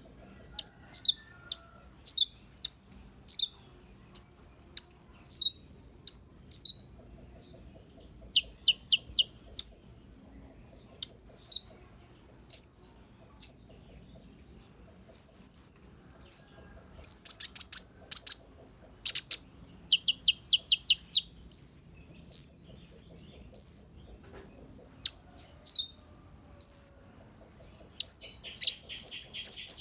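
A konin songbird singing a string of short high chirps and quick upward-slurred whistles with bursts of fast trills, its song filled with mimicked white-eye (pleci) phrases; a buzzy chatter starts near the end.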